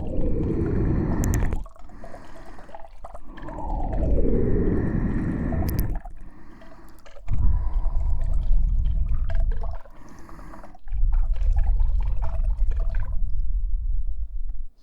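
ASMR handling of the KU100 binaural dummy head's ears: close, deep rumbling and rubbing with falling, gurgling sweeps in pitch at the start and again about three and a half seconds in, stopping and restarting several times.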